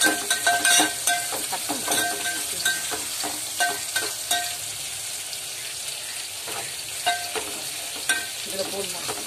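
Sliced onions and curry leaves sizzling in hot oil in a metal pot as a slotted metal spatula stirs them, scraping and clinking against the pot. The scrapes come thick and fast in the first few seconds and thin out after, over a steady sizzle.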